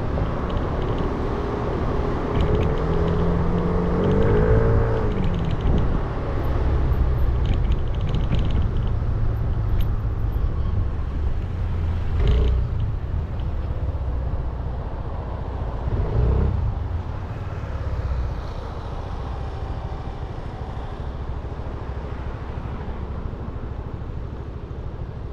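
A 300cc motorbike's engine running on the move, over a steady low rumble of wind and road noise. A few seconds in, the engine pitch rises as it picks up speed, and there are a couple of short louder bumps midway.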